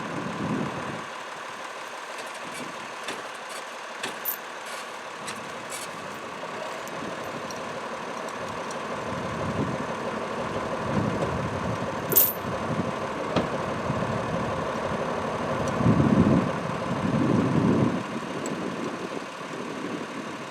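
Tractor engine running steadily, swelling louder several times, with a few sharp clicks early on and a brief high squeak about twelve seconds in.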